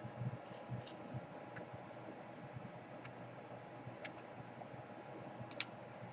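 Scattered light clicks and ticks from small tools and laptop parts being handled during reassembly, with a few soft knocks in the first second and the sharpest click near the end.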